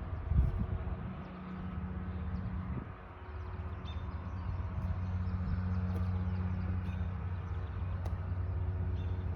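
A steady low engine hum, like a motor vehicle idling, with a brief low bump about half a second in.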